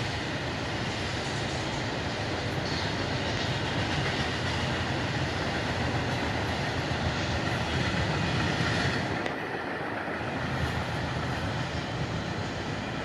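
Freight train cars rolling past on the track, a steady rolling noise that eases a little about nine seconds in.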